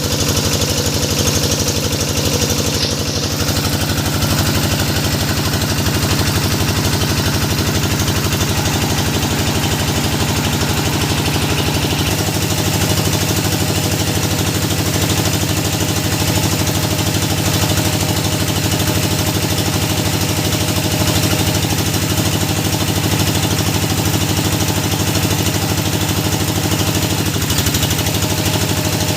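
Engine of a hydraulic deep-well drilling rig running steadily at a constant speed. Its note shifts slightly about twelve seconds in.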